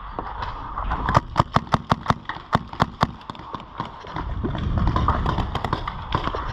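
Paintball marker firing a rapid string of about ten shots, roughly five a second, followed by a low rumbling noise on the microphone.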